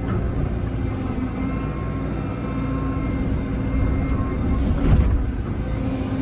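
Diesel excavator engine running steadily, with a faint whine above it. A single knock comes about five seconds in.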